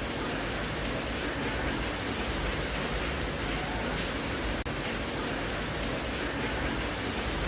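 Steady rain, an even hiss with no separate drops standing out, played as a sleep sound. About two-thirds of the way in it drops out for an instant.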